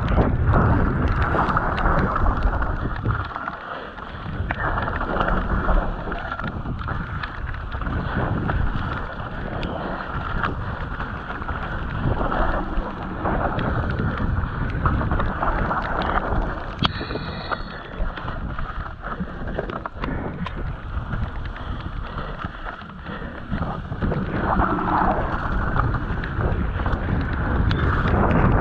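Mountain bike ridden down a rough bike-park trail: wind buffeting the camera microphone over the steady rattle and knocks of the bike and tyres on the ground. A brief high squeal comes about 17 seconds in.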